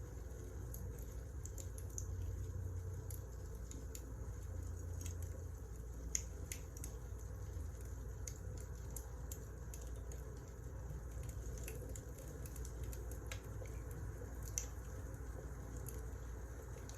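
Wood fire burning: a steady low rumble under irregular crackles, with two louder pops.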